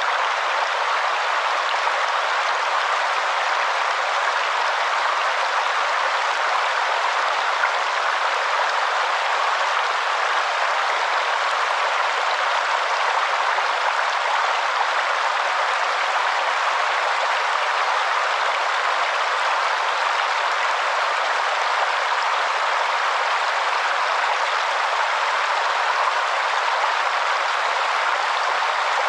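Waterfall: steady, unbroken falling-water noise, even in level throughout, with no low rumble.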